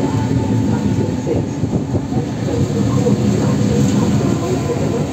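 Trenitalia high-speed passenger train rolling slowly along the platform. It makes a steady low rumble of wheels and running gear, with a faint steady hum above it.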